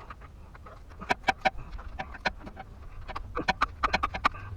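Hand tools working on metal: a run of sharp, irregular metallic clicks and clinks, some with a brief ring, starting about a second in.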